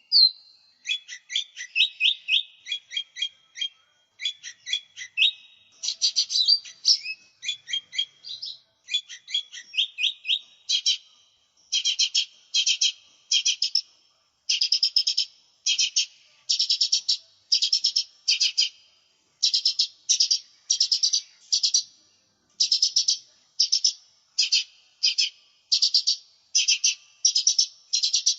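Lesser green leafbird (cucak ijo mini) singing a high, varied song. At first it gives quick warbled phrases and trills; from about halfway through it switches to short, dense bursts of chattering notes repeated a little more than once a second.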